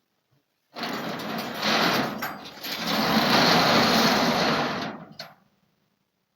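A small motorised tool running for about four seconds, briefly dropping in level partway through before running on and stopping.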